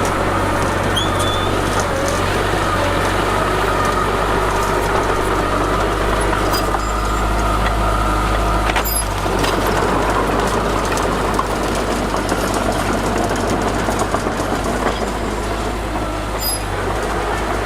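Heavy diesel engine of earthmoving equipment running steadily with a strong low drone, and a brief knock about nine seconds in.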